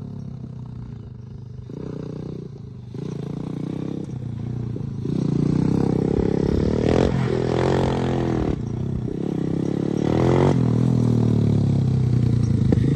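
125cc quad bike engine running, with the throttle opened and eased off several times so the pitch rises and falls. It gets louder about five seconds in and stays loud.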